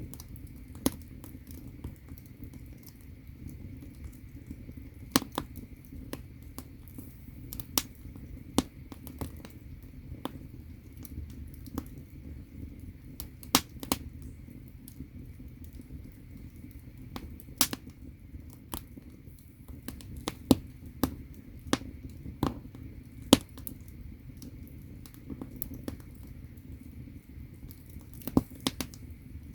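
Firewood burning in a traditional Korean agungi firebox: irregular sharp crackles and pops, a few much louder than the rest, over a low steady rumble of the fire.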